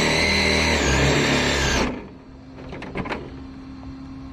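The Losi 22S drag car's brushless electric motor whines steadily at high pitch while the tyres are spun in a burnout to heat them. The whine cuts off sharply about two seconds in, followed by a few light ticks.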